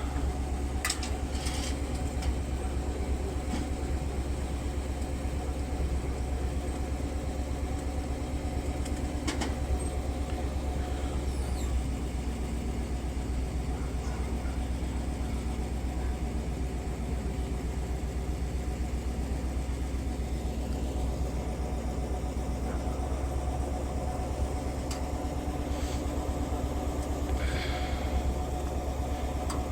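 Hydraulic lift truck's engine running steadily with a constant hum, and a few brief knocks about a second in and again near ten seconds.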